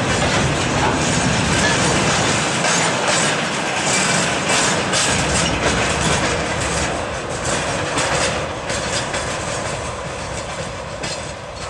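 Freight train of railway tank cars rolling past, with the steel wheels clattering over the rail joints in a rapid string of clicks. The noise fades steadily through the second half as the train draws away.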